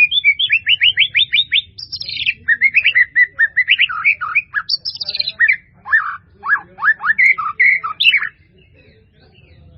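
White-rumped shama (murai batu) singing a long, varied song. It opens with a fast run of repeated sweeping notes, then moves through assorted whistles and slurred notes, and stops about eight seconds in.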